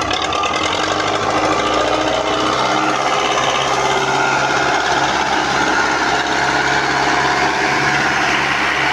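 Belarus MTZ tractor's four-cylinder diesel engine running steadily under load, a loud clattering drone with a faint whine that rises slightly over the last few seconds.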